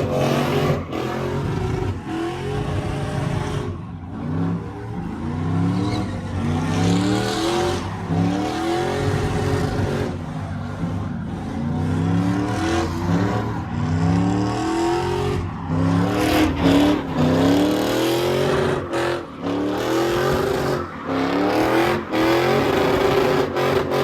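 A truck engine revving hard again and again, the pitch climbing in repeated surges about once a second, over the hiss of tyres spinning in a burnout.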